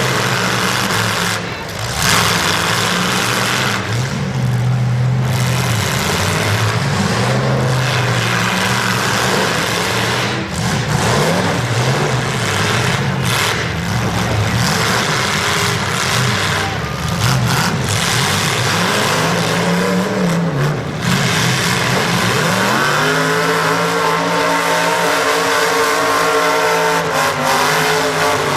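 Demolition derby car engines revving loud, their pitch rising and falling as the cars drive and ram. About three-quarters of the way through, a steady, higher drone comes in over them.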